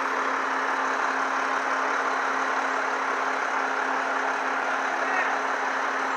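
Heavy truck engines idling, a steady unchanging hum.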